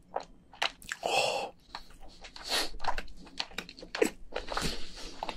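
A person chewing a mouthful of soft cooked giant crayfish meat, with many small wet mouth clicks and smacks.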